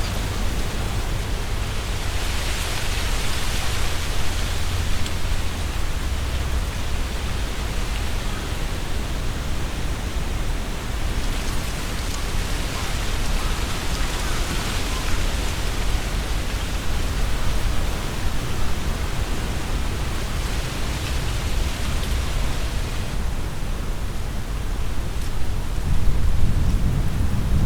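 Strong wind gusting through trees, the leaves rustling in several swelling gusts over a constant low wind rumble that grows heavier near the end.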